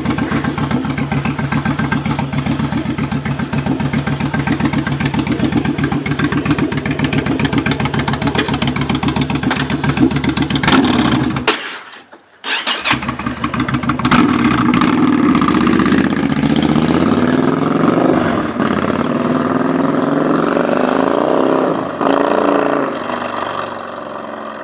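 Yamaha DragStar XVS1100's V-twin engine through Cobra Speedster Shorts pipes with the dB-killer baffles in, idling with an uneven, pulsing beat. About twelve seconds in the sound drops out for about a second, then the engine comes back louder, revs rising and falling for several seconds before easing off near the end.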